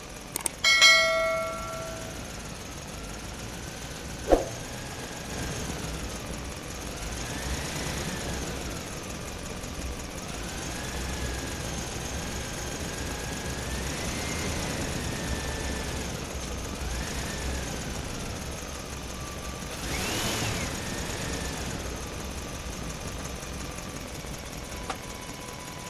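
Small electric motor of a toy vehicle running with a whine that rises and falls in pitch as it works, with a short chime about a second in.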